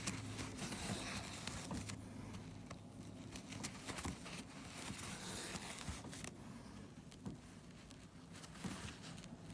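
Irregular rustling and scraping handling sounds, with scattered soft clicks.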